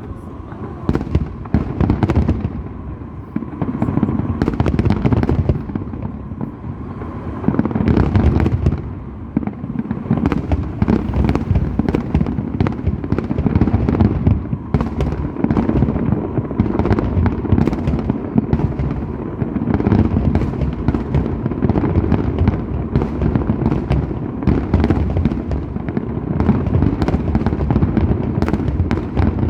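Fireworks display in full barrage: a rapid, continuous run of bangs and crackles over a low rumble, with no pause.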